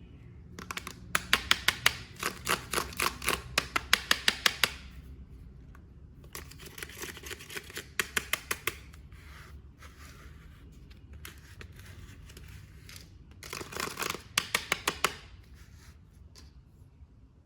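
Sharp clicking in three quick runs of about five or six clicks a second, from toy figures being handled and unpacked.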